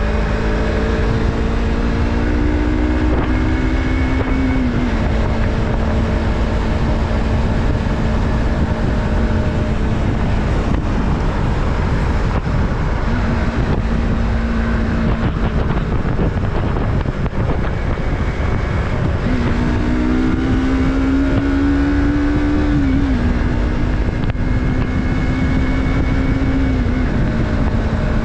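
Yamaha MT-03's 321 cc parallel-twin engine running under way, holding a steady note. Twice it climbs in pitch under throttle and then drops sharply, with wind rumble on the microphone underneath.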